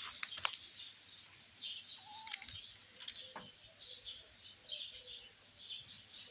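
A small bird chirping repeatedly, short high notes about two to three a second, with a few sharp clicks or rustles about two and three seconds in.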